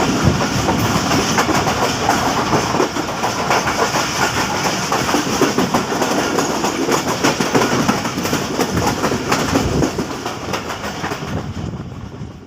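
Passenger express train rolling past, its coach wheels clattering steadily over the rail joints, the sound fading away near the end.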